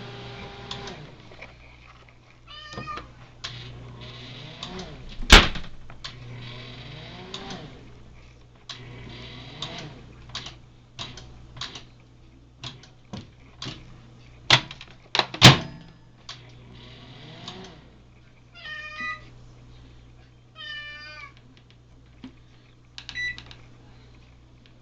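Kenmore microwave humming steadily with its turntable still turning though the door is open and no timer is set: a fault in the oven's door or stop circuit. A cat meows several times, and a few sharp clicks or knocks sound about five seconds in and twice around fifteen seconds in.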